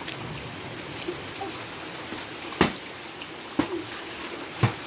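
Steady rain falling, with three sharp thumps about a second apart in the second half.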